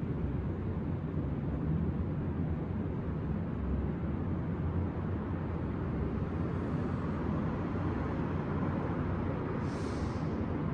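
Steady low rumble of city traffic, with a short hiss near the end.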